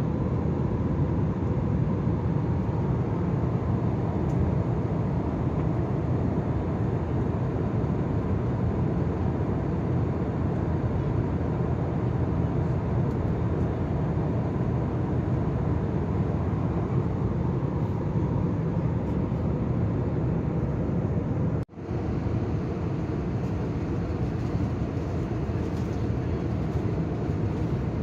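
Steady engine and airflow noise inside the cabin of an Airbus A320, briefly cutting out about three quarters of the way through.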